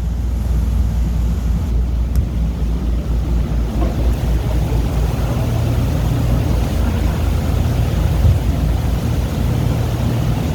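Tour boat's engine running steadily underway, a continuous low rumble.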